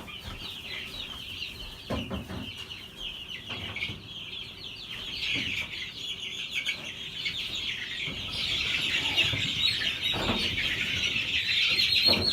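A large flock of young laying-hen chicks peeping all at once, a dense, continuous chatter of high calls that grows louder about eight seconds in. A few dull knocks are heard among them.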